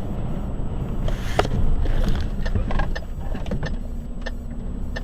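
Steady low rumble of a moving vehicle's engine and road noise as heard inside the cab, with scattered light clicks and rattles in the second half.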